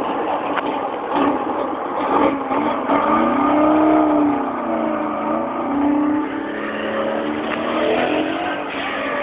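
Small classic car engines revving as they pull away, the note rising and falling several times, loudest a few seconds in. First a Fiat 500's air-cooled two-cylinder pulls off, then a Porsche 356's air-cooled flat-four passes close near the end.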